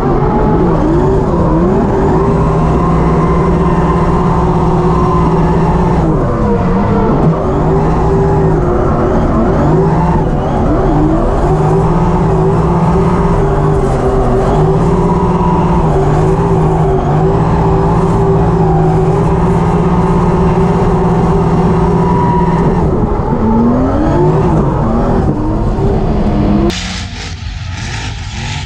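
Drift car engine heard from inside the cockpit during a drift, held at high revs for long stretches with repeated brief lifts off the throttle and climbs back up. Near the end it changes suddenly to quieter, more distant race-car and tyre noise from beside the track.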